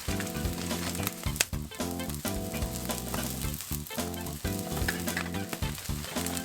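Food sizzling and frying in a carbon-steel wok, with stir-fry stirring and a sharp clack about one and a half seconds in, under background music.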